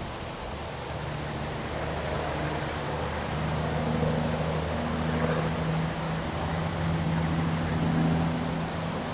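Strong wind blowing steadily, with the rush of rain, under a steady low hum that grows louder in the middle and then eases near the end.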